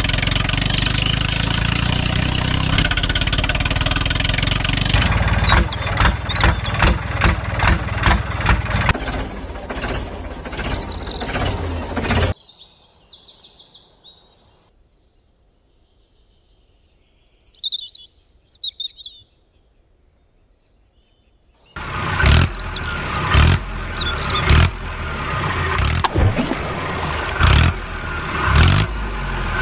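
An engine sound runs steadily, then turns to rhythmic chugging beats. It drops out for about ten seconds in the middle, where a few birds chirp faintly, and the chugging comes back near the end.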